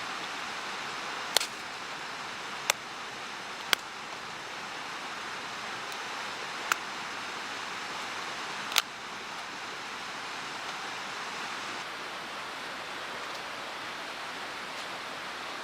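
Steady rushing of a mountain stream, with five sharp, single pops from a crackling wood fire in the first nine seconds.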